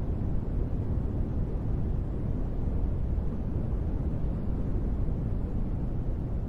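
Steady sleep noise track billed as white noise, unbroken and even, weighted heavily to the low end so it sounds like a deep, dull rumble rather than a bright hiss.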